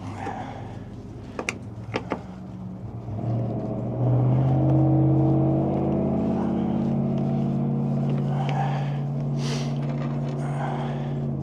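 An engine running steadily at an even idle, with a couple of sharp clicks near the start; the engine gets noticeably louder about four seconds in and stays so.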